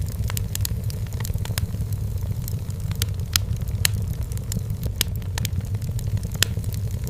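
Wood fire burning in a fireplace: irregular sharp crackles and pops, a few louder ones about three and a half, four, five and six and a half seconds in, over a steady low rumble of the flames.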